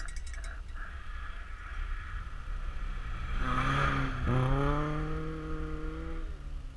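A car engine accelerating, joining a steady low rumble about halfway in. Its pitch drops sharply once, then climbs and holds before fading near the end.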